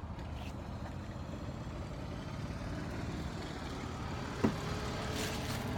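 Steady low background rumble with no speech, broken by a single short knock about four and a half seconds in.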